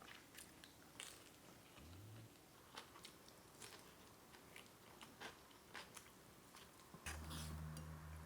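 Faint chewing with short, sharp crunches every so often. A low steady hum comes in about seven seconds in.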